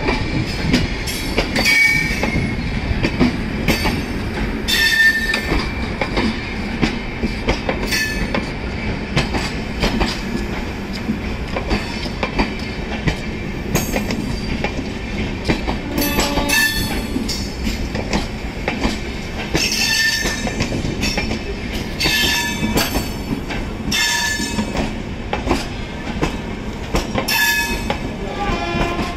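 Indian Railways passenger coaches rolling past close by: a steady rumble of wheels on rails with repeated clacks as the wheels cross rail joints, and a few short high wheel squeals.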